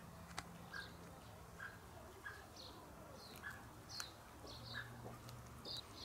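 A small bird chirping over and over, a short call a bit more than once a second, with a few sharp crunching clicks as a cat chews on its freshly caught bird.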